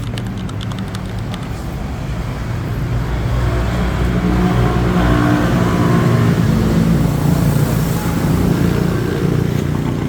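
Yamaha Sniper 155R single-cylinder engine running, with a fast clicking knock at first and the engine note rising through the middle. The knock is the sign of a failed cam chain tensioner whose spring has dropped out, leaving the timing chain slack.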